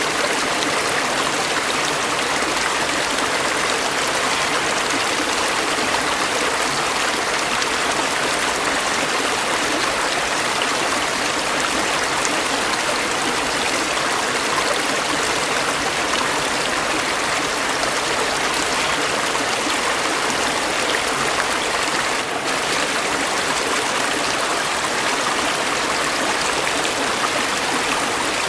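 A stream running steadily, the water splashing and trickling in an even rush, with a brief dip about three-quarters of the way through.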